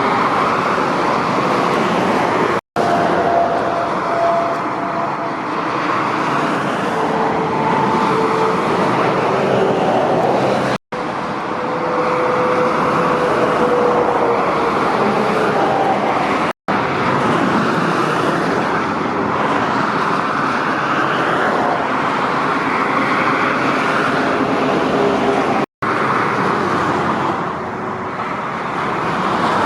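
Heavy motorway traffic: lorries and cars passing at speed, a steady rush of tyre and engine noise with faint whining tones that drift in pitch. The sound cuts out for an instant four times where clips are joined.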